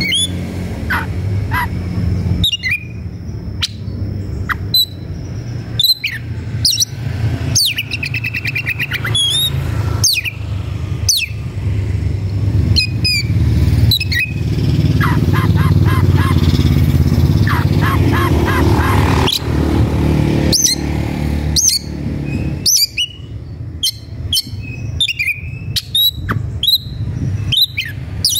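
Oriental magpie-robin (kacer) singing hard: a fast, unbroken run of sharp chirps, slurred whistles and rapid trills, the agitated song of a male worked up to fight a rival. A steady low hum runs underneath.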